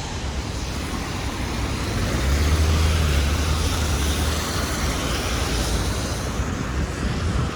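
Motor traffic passing on a wet city avenue: a steady hiss of tyres on wet pavement, with a deeper engine rumble from a passing vehicle swelling about two seconds in and fading out by about four and a half seconds.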